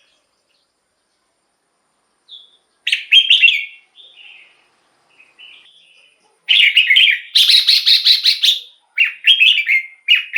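Red-whiskered bulbul singing. After about three seconds of silence comes one short, loud phrase of quick, chattering whistled notes and a few soft notes. From about six and a half seconds, loud song phrases follow one after another.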